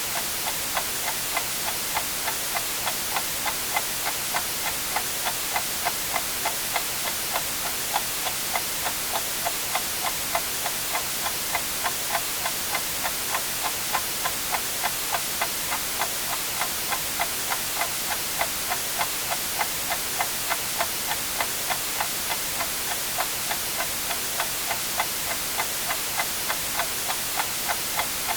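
A clock ticking steadily, about two ticks a second, over constant white-noise hiss.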